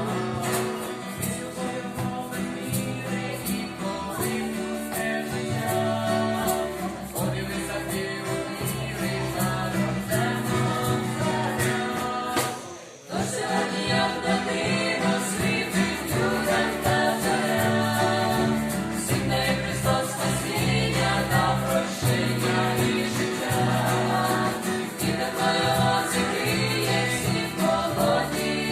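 A band's song: singing voices over instruments with a steady beat, briefly dropping away for a moment about halfway through.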